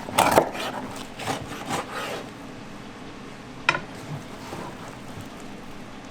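Food being worked on a wooden cutting board: a quick run of rasping, scraping strokes, then a single sharp knock and a few fainter taps.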